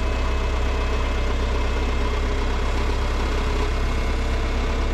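Heavy equipment engine idling steadily, a constant deep hum.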